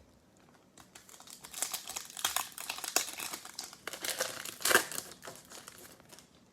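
Plastic foil wrapper of a trading-card pack crinkling as it is handled and torn open by hand, a dense crackle with a sharper crackle about three-quarters of the way through.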